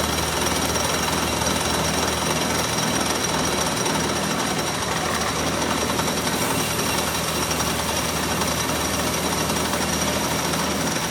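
Steady, dense noise of metalworking machinery in a hydraulic-cylinder workshop, over a constant low hum.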